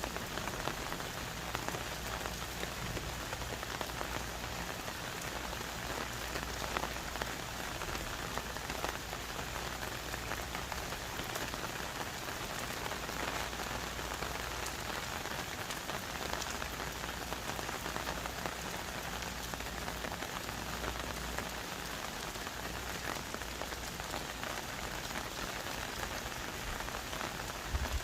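Heavy rain falling steadily on forest trees and leaves, with dense small drop patter.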